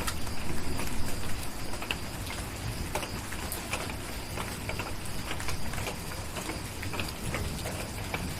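Steady rain with a low rumble underneath, and scattered sharp pops and crackles of a wood fire in a fireplace.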